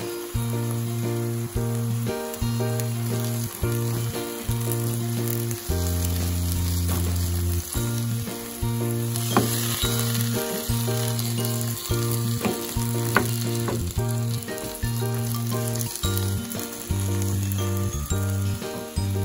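Garlic scapes sizzling as they are stir-fried in a pan and turned with a wooden spatula, with two sharp knocks of the spatula on the pan, one about halfway and one about two-thirds through. Low background music, its notes changing every second or so, runs underneath.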